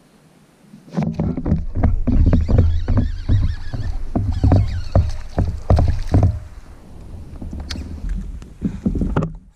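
Irregular run of knocks and bumps on a sit-on-top plastic fishing kayak as it is handled, starting about a second in and stopping just before the end.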